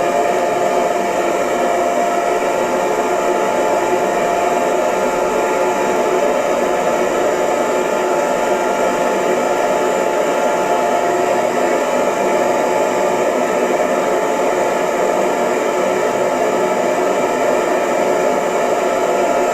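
Electric hair dryer running steadily, its fan and airflow making a constant rushing noise with a faint steady hum.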